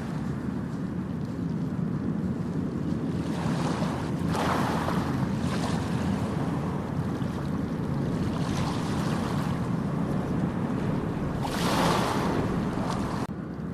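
Ocean waves breaking and washing up a beach, three surges of hissing surf over a steady low rumble of sea and wind.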